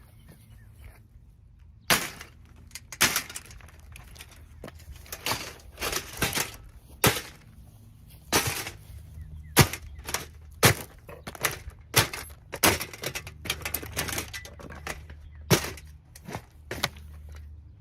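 A Holmes box fan being smashed: starting about two seconds in, an irregular run of about twenty hard blows, each a sharp crack or bang as the fan breaks.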